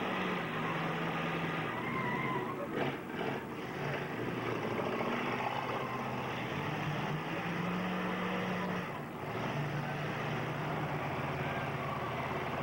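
Several four-cylinder demolition-derby cars with their engines running and revving, a continuous mechanical din that rises and falls as they push and ram each other.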